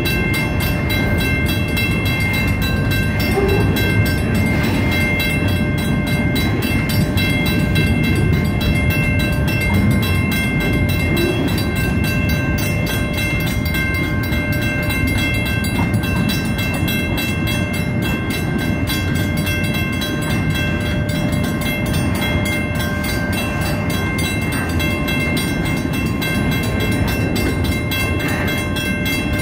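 Long train of loaded flatcars rolling steadily past a grade crossing: continuous rumble and clatter of wheels on rail, with the crossing's warning bell ringing over it.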